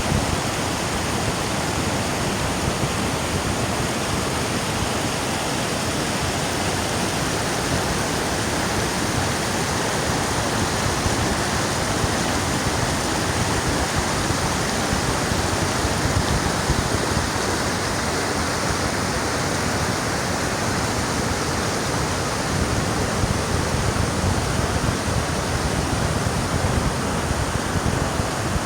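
Steady, unbroken rush of fast-flowing water, like a waterfall or mountain torrent.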